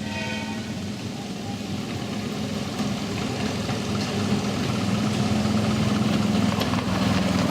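Miniature railway locomotive running with a steady low hum that grows steadily louder as it draws nearer.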